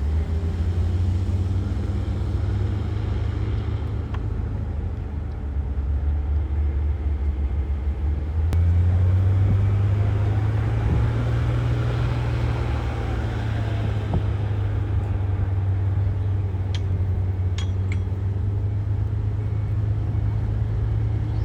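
Heavy earthmoving machinery's diesel engine running under load with a steady low drone that grows louder about eight seconds in, with a few sharp metallic clicks near the end.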